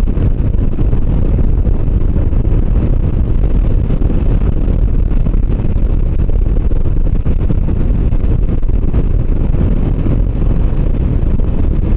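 Motorcycle riding along at road speed: steady engine and tyre noise under heavy wind rush on the rider's microphone.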